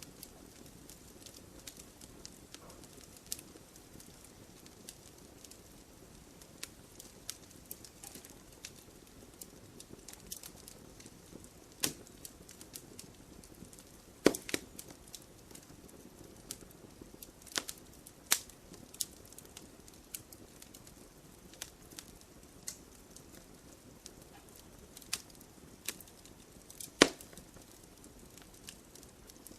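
Burning wood fire crackling: irregular sharp pops and snaps over a low steady hiss of flames, with two louder pops about halfway through and near the end.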